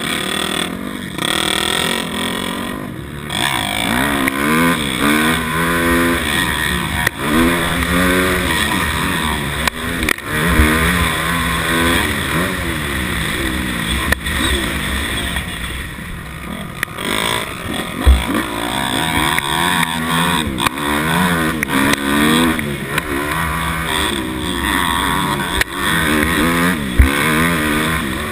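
250 dirt bike engine revving hard, its pitch climbing and dropping again and again as the rider works the throttle and gears, with a few sharp knocks along the way.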